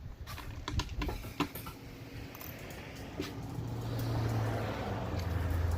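Scattered light clicks of a socket ratchet tightening a small nut. From about halfway through, a low, steady vehicle engine drone builds up and becomes the loudest sound.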